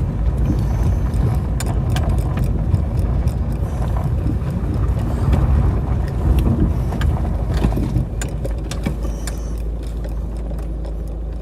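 Car moving slowly, heard from inside the cabin: a steady low rumble of engine and road noise with scattered light clicks and knocks. The rumble eases slightly near the end.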